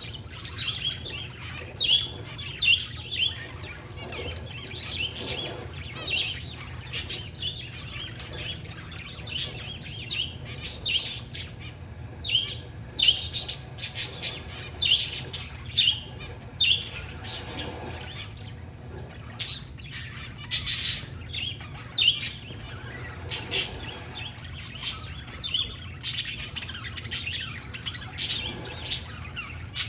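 Parakeets and zebra finches chirping and squawking together: a busy, unbroken stream of short, high calls, several a second, over a faint steady low hum.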